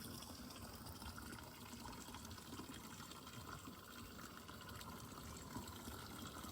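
Water running steadily from a fountain, a faint even sound.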